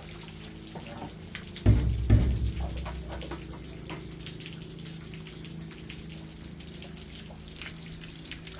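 Heavy rain dripping and pattering in many separate drops over a steady low hum, with two heavy low thuds about two seconds in.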